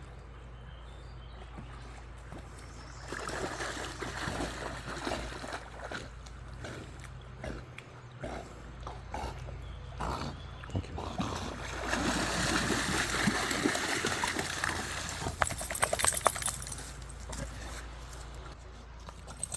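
Lake water splashing and sloshing as a dog swims and wades in the shallows. The splashing starts a few seconds in and is heaviest around the middle and latter part. Near the end comes a quick run of sharp clicks.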